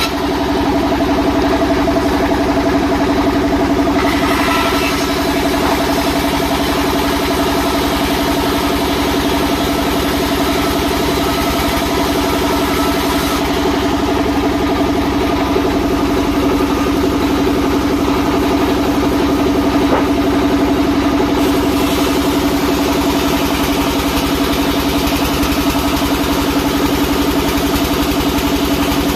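Sawmill machinery running steadily, a constant mechanical hum with an unchanging pitch and no clear change in load.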